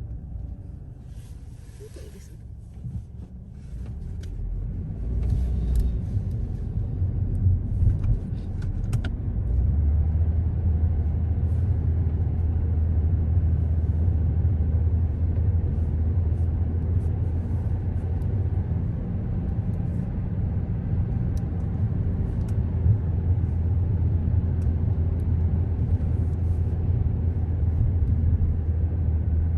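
A car being driven: low steady rumble of engine and road noise. It is quieter for the first few seconds, swells from about four seconds in, and settles into an even low hum after about ten seconds. Faint scattered clicks sound during the first nine seconds or so.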